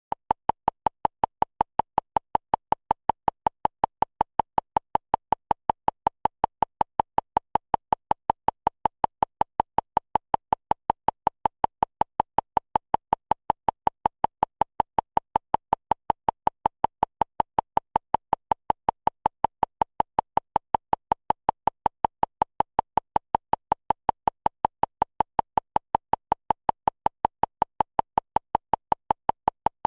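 A short, pitched blip repeating at a steady, even rate of about four a second without a break.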